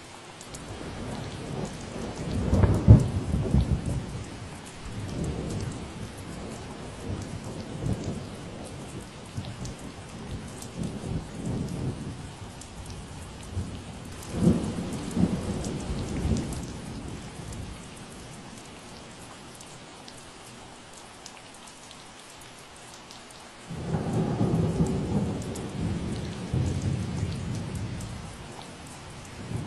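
Steady rain falling, with rolls of low thunder rumbling over it: a strong roll peaking about three seconds in, another around fifteen seconds, and a third that starts suddenly near the end.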